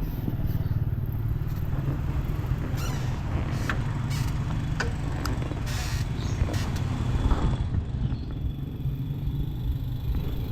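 Keeway SCR 250's V-twin engine idling steadily through a Racefit free-flow exhaust, a low, even pulsing rumble.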